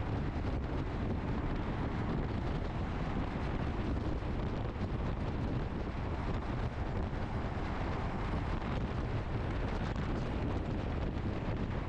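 Steady wind rush on the microphone of a moving motorcycle at riding speed, with the bike's road and engine noise underneath.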